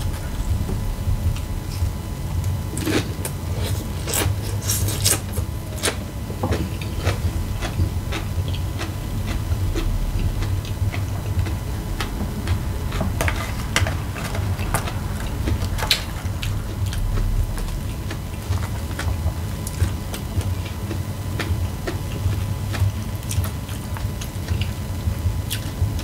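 Close-up chewing and crunching of taco salad with tortilla chips, with many short crisp crackles scattered throughout, over a steady low hum.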